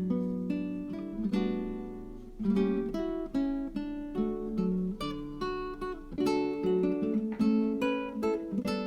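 Background music: acoustic guitar picking a gentle melody with steady note changes.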